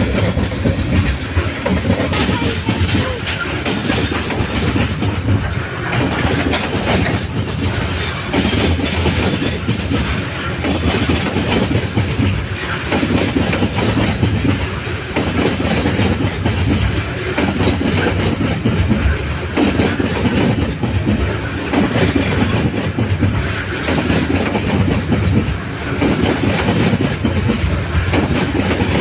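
Coal freight train rolling past, its wagon wheels clattering steadily over the rail joints.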